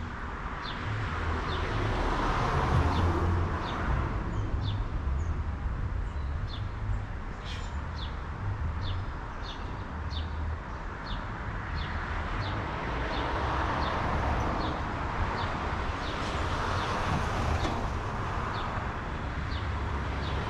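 A songbird repeating a short, sharp, high chip note, a little more than once a second, over a steady low background rumble.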